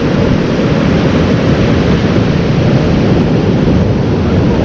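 Outboard boat motors running through a steady loud roar, mixed with surf and wind noise on the microphone.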